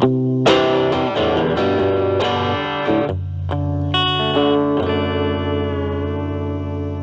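Electric guitar played through an Ibanez Super Metal mini distortion pedal into a Marshall Valvestate amp: a quick run of picked notes and chords, then a low chord left ringing, with a few higher notes picked over it about four seconds in.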